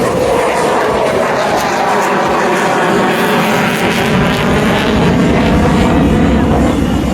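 Single-engine aerobatic airplane flying its display. The piston engine and Hartzell propeller give a loud, steady, buzzing drone.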